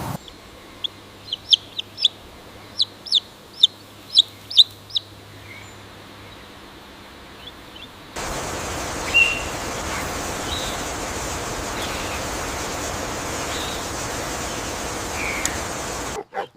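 A bird chirping in a quick run of short, high peeps, about a dozen in the first five seconds. After a sudden change about eight seconds in, a steady hiss carries a few faint chirps.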